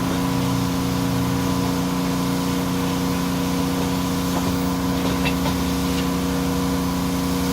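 An engine running steadily at a constant speed, a continuous even drone, with a few faint clinks around the middle.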